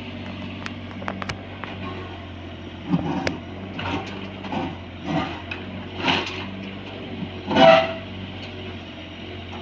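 Bobcat 322 mini excavator's diesel engine running steadily, with a series of about six short, harsh working noises from the machine and its bucket, the loudest about three-quarters of the way in.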